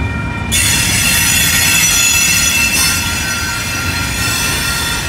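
Double-stack intermodal freight train rolling past: a steady low rumble of wheels on rail, with high-pitched wheel squeal that comes in sharply about half a second in and eases after about three seconds.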